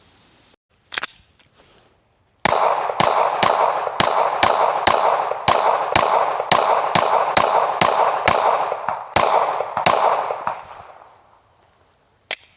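A rapid string of about twenty sharp bangs, roughly three a second, over a continuous noisy rush, fading out after about eight seconds. A single bang comes before the string and another near the end.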